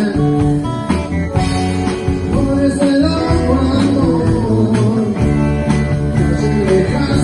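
Live rock band playing a song, with guitars and bass over a drum beat.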